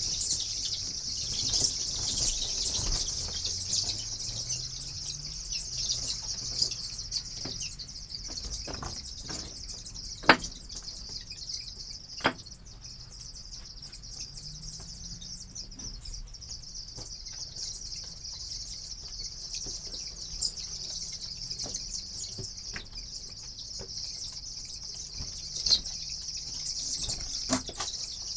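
A large flock of young broiler chickens peeping continuously in a dense, high-pitched chorus. A couple of sharp knocks stand out about ten and twelve seconds in.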